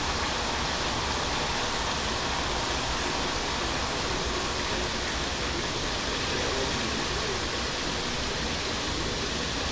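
Chicken legs and thighs deep-frying in hot oil: a steady, even sizzle.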